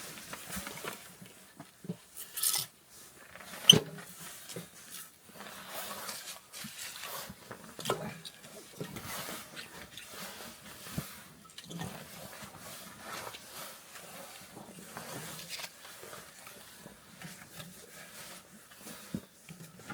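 Split firewood sticks clacking and knocking as they are set down one by one to build a Swedish-tower fire lay, with rustling handling noise between; one sharper knock about four seconds in.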